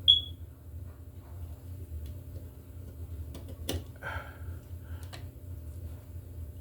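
Utility knife scoring and cutting the plastic jacket of 12/2 NM cable: a brief high squeak right at the start, then a few light clicks and a short scrape, over a steady low hum.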